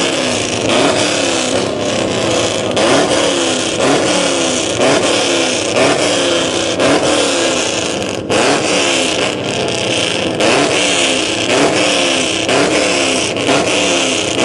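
V8 car engine revved again and again in quick throttle blips: the revs rise and fall about every three-quarters of a second, one after another.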